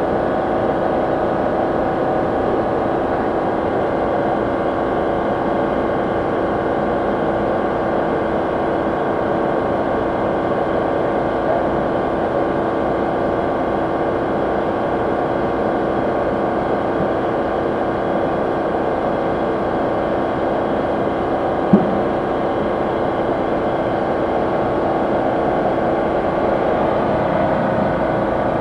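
A Ford EcoSport running with its air conditioning on: a steady, unchanging mechanical hum with a few constant tones in it. There is one brief click about three quarters of the way through.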